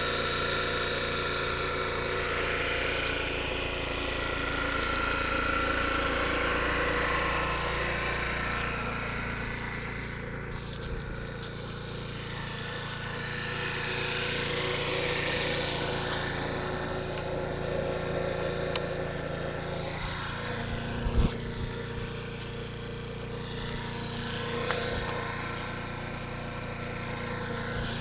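Small 2.2 kW CPI Popcorn scooter engine running steadily, its pitch drifting up and down slightly, with a few brief knocks past the middle.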